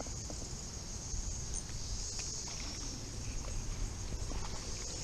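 Steady high-pitched insect chorus, cicadas, swelling and easing slightly, over a low rumble.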